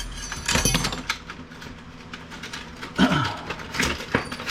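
Clicks, knocks and rattles of plastic and metal printer parts being handled and pried at during disassembly. They come in a quick cluster in the first second and again around three to four seconds in.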